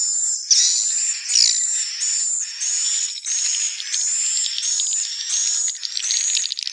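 Swiftlets calling: a steady run of high, buzzy twittering chirps, one about every half second, each sliding down slightly in pitch.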